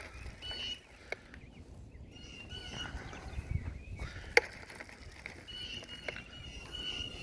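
Wild birds calling: short, high calls repeating at intervals. A single sharp click comes about four seconds in.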